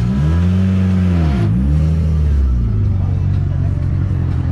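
Car engine idling, revved once: the pitch climbs and falls back to idle within about a second and a half, then settles into a steady idle.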